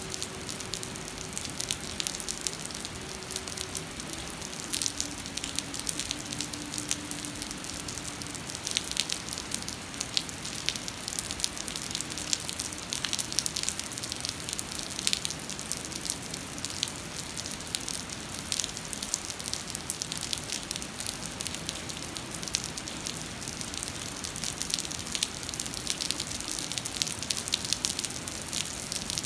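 Heavy rain pouring onto flooded pavement: a steady hiss packed with countless small sharp splashes of drops hitting standing water.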